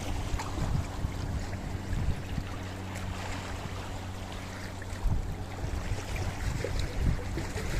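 Sea waves washing against a rocky shore: an uneven rush of water with scattered small splashes and ticks.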